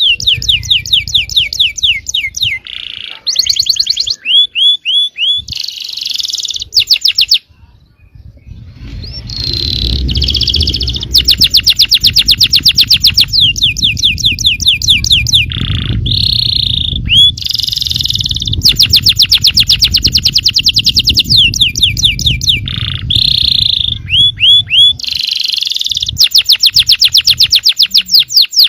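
Yellow domestic canary singing long, fast trills (rolls) of rapidly repeated notes, one phrase after another, broken by a brief pause about a quarter of the way in. A low background rumble runs under the song through the middle part.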